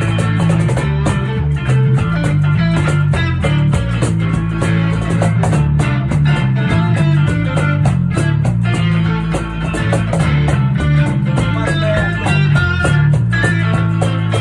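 Live band playing an instrumental passage led by guitar, with steady bass notes underneath.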